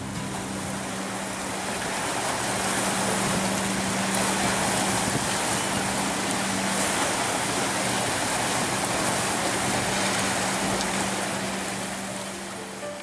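Boat engine running with a steady low hum under loud rushing water and wind noise. The hum stops about nine seconds in, and the rushing fades near the end.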